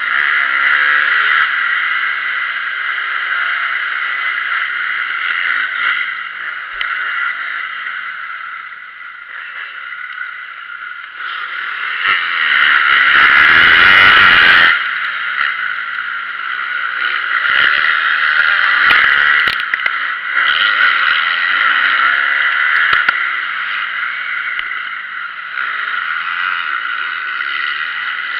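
Motocross bike engine revving up and down as it rides, its pitch repeatedly rising and falling. It gets louder about twelve seconds in, then drops off sharply about fifteen seconds in.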